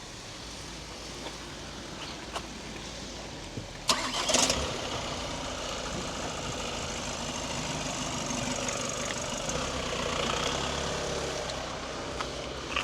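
A car engine starts suddenly about four seconds in, with a brief loud flare, then settles into a steady idle.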